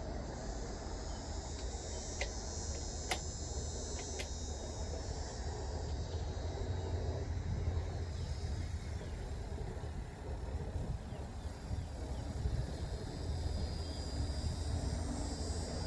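Insects trilling steadily at a high pitch over a low, steady rumble of road traffic. Three faint sharp clicks come about two, three and four seconds in.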